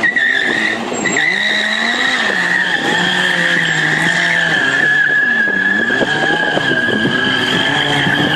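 BMW S1000RR rear tyre squealing steadily on the pavement as the bike is held in a circling drift, while its inline-four engine revs up and down underneath.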